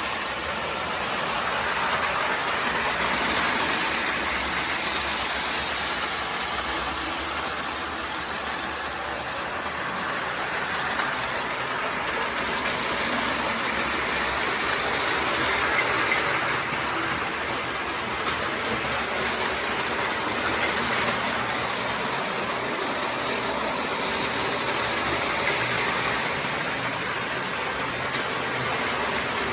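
O-gauge toy electric trains running laps on O27 track: a steady whir and rumble of their motors and wheels that swells and eases as they come round the loops.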